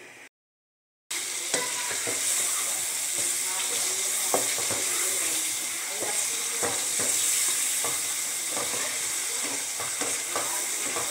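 Chicken curry sizzling as it fries down in its masala (the bhuna stage) in a metal pan, stirred with a spoon that scrapes and knocks against the pan. The sizzle starts about a second in, after a brief silence.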